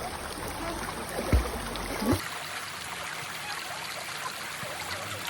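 Mountain valley stream flowing steadily over rocks, with two brief low knocks about a second and a half and two seconds in.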